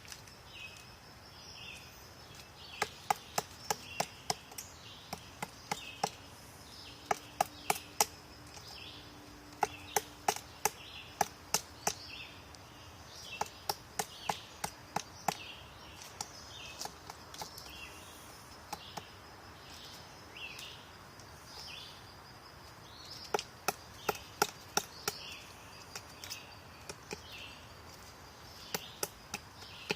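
Woodpecker pecking at wood: sharp, irregular taps in short clusters of several strikes with pauses between. A short high chirp repeats about once a second behind the taps.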